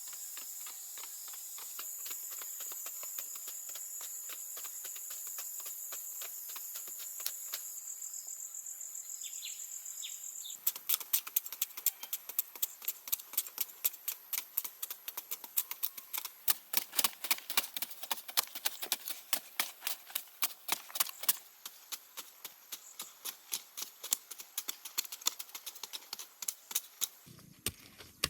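Steady high-pitched insect buzzing for about the first ten seconds. Then a long, fast run of sharp taps or knocks, several a second, slowing and thinning near the end.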